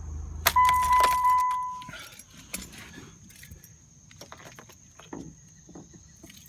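Car keys jangling and clicking as the ignition key is handled, with a steady electronic warning tone lasting about a second and a half. A low rumble underneath dies away about a second and a half in, then only scattered small clicks.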